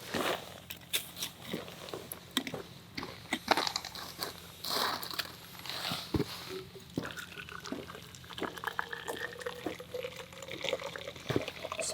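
Hot water being poured into a Nalgene bottle to make a hot-water bottle, the pouring tone rising in pitch over the last few seconds as the bottle fills. Scattered clicks and crackles sound throughout.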